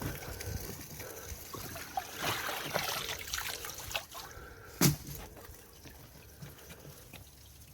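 Water trickling and dripping from a shrimp net lifted out of the river, with one sharp knock about five seconds in.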